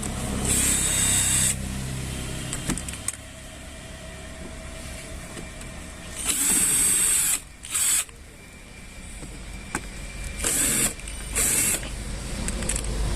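Screws being undone from a washing machine's plastic rear cover, in several separate bursts of about a second or less, with pauses between.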